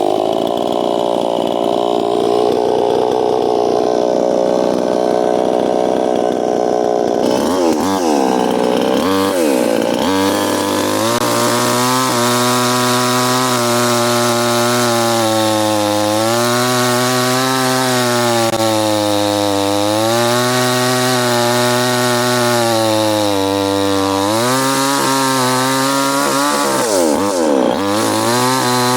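New West 598 two-stroke petrol chainsaw running at high throttle, its pitch wavering up and down. The revs drop sharply and climb back a few times, about eight to ten seconds in and again near the end.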